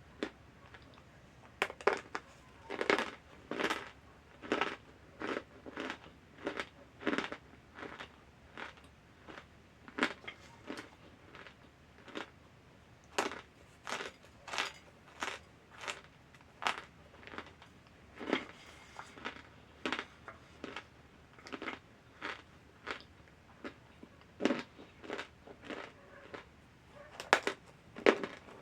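A person chewing dry chunks of cornstarch: a run of sharp crunches, roughly one or two a second, with short pauses between bites.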